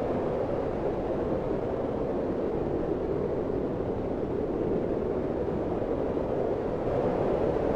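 Log fire in a fireplace burning with a steady, low rushing noise and no distinct crackles.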